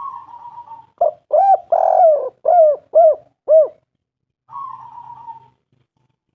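Spotted dove calling: a raspy rolling note, then a run of about six separate rising-and-falling coos, then another raspy rolling note.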